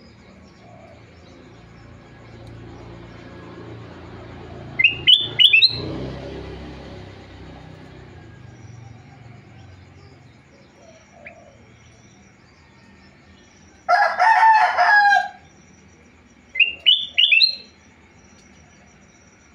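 Kutilang emas (a bulbul) singing short phrases of three quick, falling whistled notes, about five seconds in and again near the end. A louder, harsher call of about a second and a half comes shortly before the last phrase, with a low background rumble swelling and fading in the first half.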